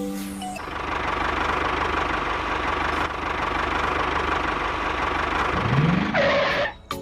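Engine running steadily, as from a mini tractor, with a short rising whine near the end before it cuts off.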